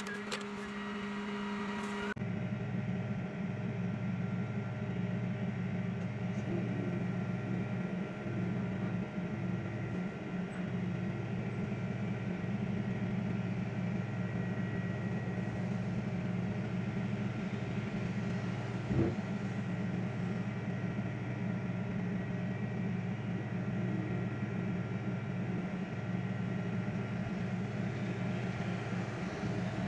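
Brief music with ticking cuts off about two seconds in, giving way to a tow truck's engine running steadily as a low, even hum. There is a single short click a little past the middle.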